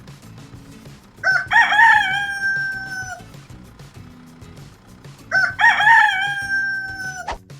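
Rooster crowing twice, about four seconds apart. Each crow is a cock-a-doodle-doo: a few short notes, then a long drawn-out final note that sags slightly in pitch.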